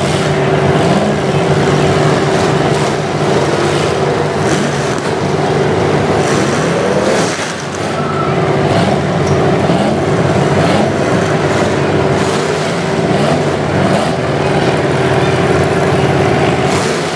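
Full-size demolition derby car engines running and being revved up and down again and again, over a steady engine drone.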